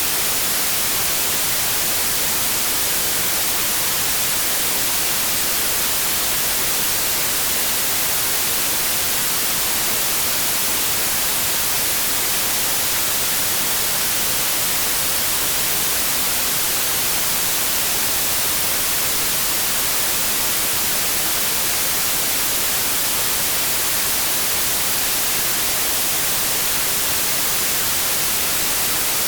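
Synthetic white noise: a steady, even hiss with no change in level.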